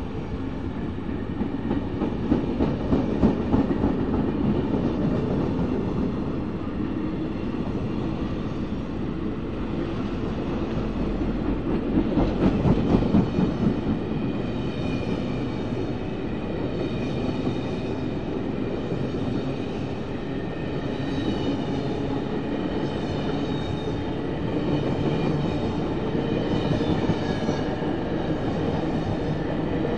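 Passenger coaches rolling past close by at speed: a steady rumble of steel wheels on rail, with louder clattering spells about two seconds in and again about twelve seconds in as wheel sets cross rail joints.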